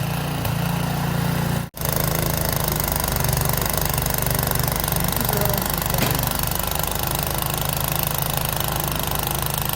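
Small petrol engine of a snow blower running steadily while clearing a driveway, with a sudden, very brief break about two seconds in.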